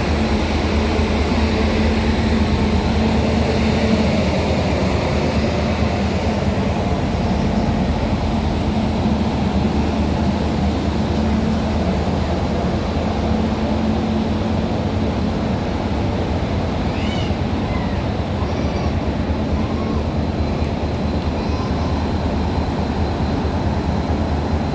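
Coupled Indian Railways WAG-9 electric and WDG4 diesel locomotives running, giving a steady whirring with a constant low hum. A few faint short chirps come in over it in the second half.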